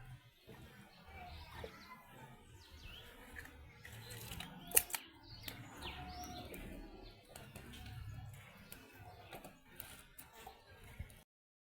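Faint scattered bird chirps over a low background rumble, with one sharp click about five seconds in.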